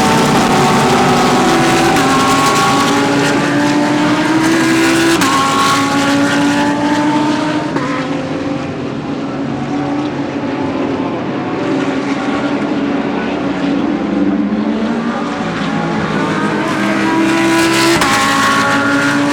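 GT3 race cars running at full throttle, engines climbing in pitch and dropping back at each upshift, several cars in turn with more than one engine at once.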